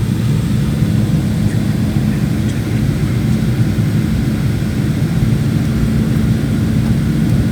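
Aircraft cabin noise during the landing approach: a steady low drone of engines and rushing air, with a hum held at one pitch.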